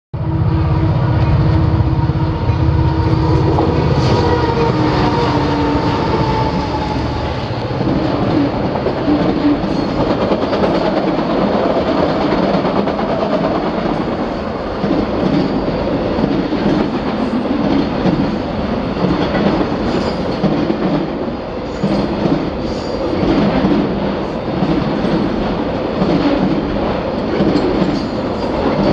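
Diesel locomotives of a Union Pacific freight train running past, their engines loud with steady tones for about the first seven seconds. Then a long string of autorack cars rolls by, its wheels clattering in an uneven rhythm over the rail joints.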